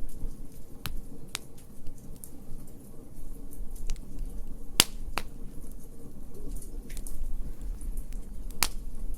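Wood fire crackling: a handful of sharp, separate pops and snaps, the loudest about five seconds in and near the end, over a steady low rumble of burning.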